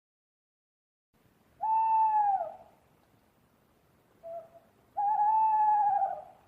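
Owl hooting: two long hoots about three seconds apart, each about a second long and dropping in pitch at its end, with a short soft note just before the second.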